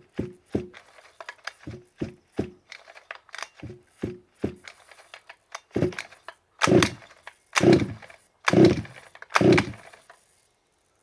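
Small petrol two-stroke engine of a large-scale RC car being turned over for its first start-up. It comes in repeated short bursts: many quick ones, then four longer, louder ones about a second apart near the end, without settling into steady running.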